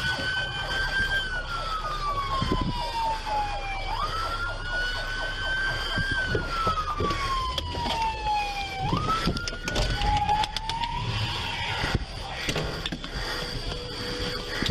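Police siren wailing, its pitch rising quickly and falling slowly in cycles of about five seconds; it cuts off about ten seconds in, and scattered knocks and clicks follow.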